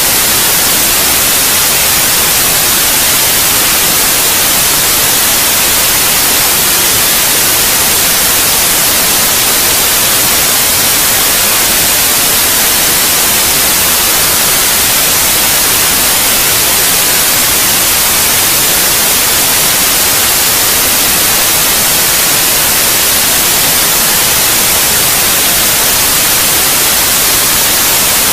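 Steady white noise: an even, loud hiss, brightest in the treble, with no change in level or character.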